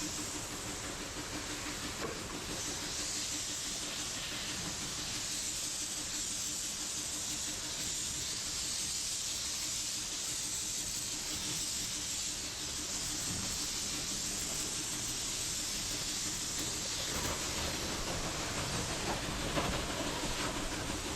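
Pressure washer spraying water: a steady hiss with a steady low hum underneath.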